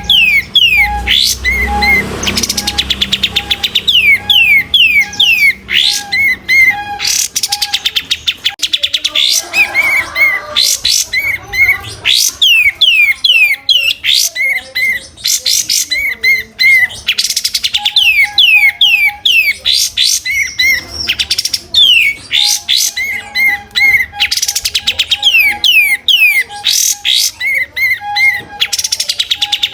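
Kapas tembak songbird singing continuously in loud, rapid phrases: quick runs of short down-slurred chirps mixed with fast rattling trills, with hardly a pause.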